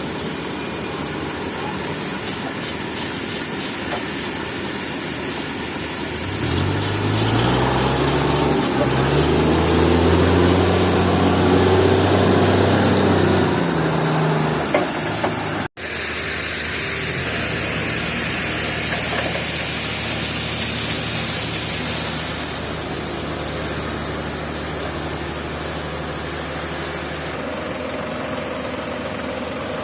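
An engine running steadily. About a quarter of the way in it revs up, holds higher for several seconds, then drops back to a steady idle. The sound cuts out for an instant near the middle.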